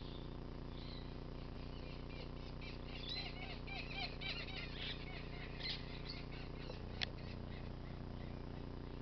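A bird twittering in a quick run of short chirps for about four seconds, then a single sharp click near the end, over steady faint background noise.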